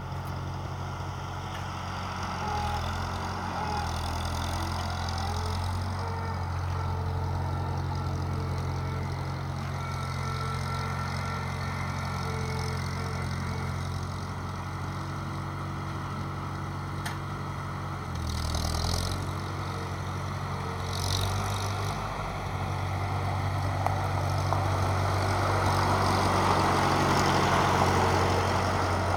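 Old Farmall tractor engine running steadily, its note shifting briefly about eighteen seconds in. Two short high rasps follow, and the sound grows louder and noisier near the end.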